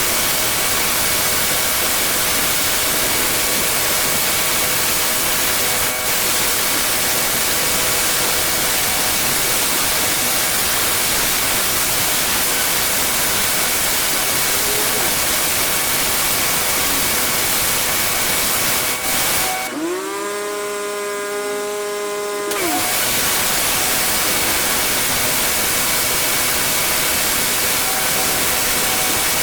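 Pressure washer spraying, a loud steady hiss of the water jet. About twenty seconds in the spray stops for about three seconds, leaving the machine's motor hum, whose pitch dips and then rises before the spray starts again.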